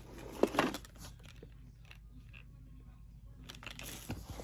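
Small cosmetic packaging being handled: a couple of short clicks and crinkles about half a second in, then quiet, then soft rustling near the end.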